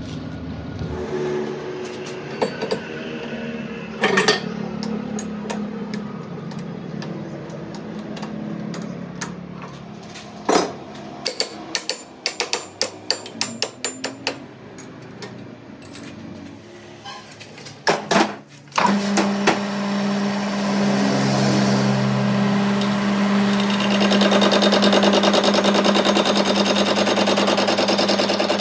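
Scattered sharp metal taps and clinks, with a quick run of them partway through. Then, about two-thirds of the way in, a motor-driven machine starts and runs steadily with an even hum, growing louder near the end.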